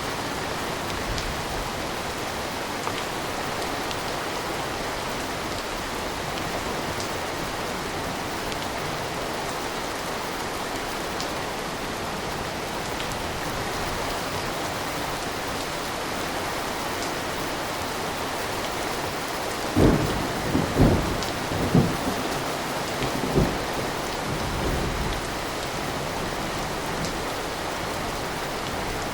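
Steady rain, with a burst of thunder about two-thirds of the way through: several loud cracks and rumbles over about four seconds before the rain carries on alone.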